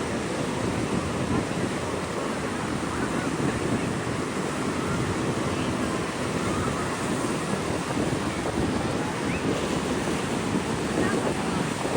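Steady rush of ocean surf breaking, with wind buffeting the microphone.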